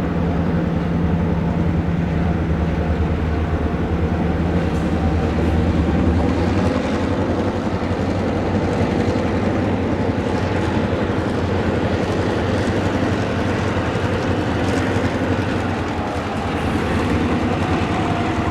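Diesel freight train running steadily: a low, even engine drone with the rolling noise of the train.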